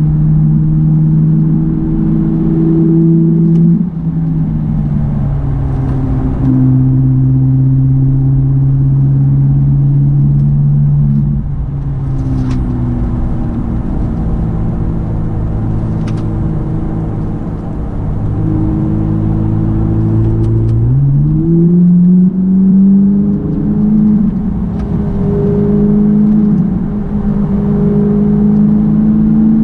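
Ferrari 458 Italia's V8 engine heard from inside the cabin while driving. Its note steps down in pitch a few times early on, rises sharply about two-thirds of the way through as the car accelerates, and keeps climbing toward the end.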